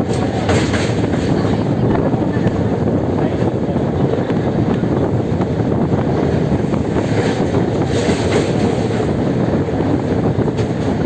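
Steady noise of a moving vehicle, with wind buffeting the microphone.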